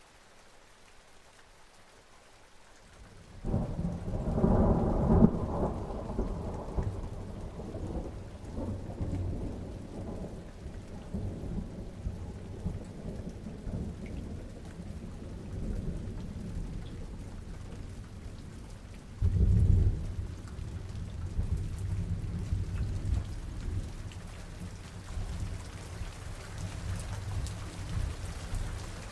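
Rain falling steadily with a thunderstorm: a loud low thunder rumble breaks in about three and a half seconds in and rolls away over several seconds, and a second, shorter thunderclap comes past the middle.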